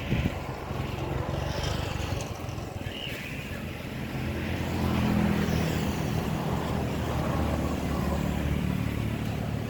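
A vehicle engine running steadily, with a low even hum that grows louder about four seconds in.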